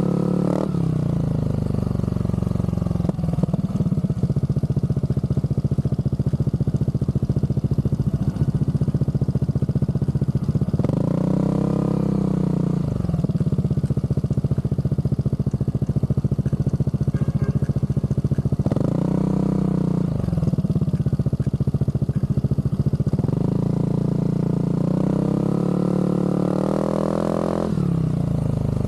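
Scooter engine with an aftermarket Zard exhaust running at a steady low idle. It is revved up and let fall back three times: about eleven seconds in, again near nineteen seconds, and in a longer climb from about twenty-three to twenty-eight seconds.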